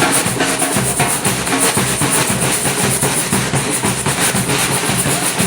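Batucada: a samba percussion group drumming a fast, dense, steady rhythm with deep drum beats underneath.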